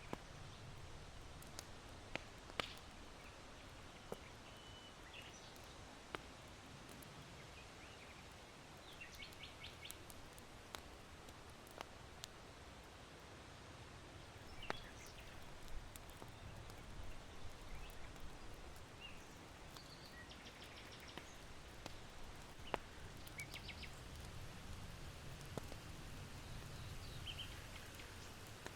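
Charcoal crackling in an irori hearth, with scattered sharp pops, over a low steady rush of wind. Small birds give short chirps and quick trills now and then.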